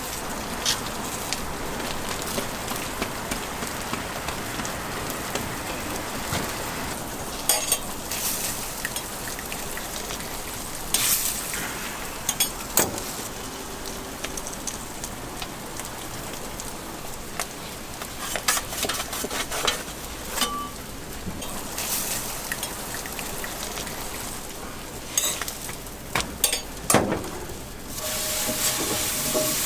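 Food frying on a street-toast griddle: a steady sizzle, broken by scattered sharp knocks and scrapes of utensils.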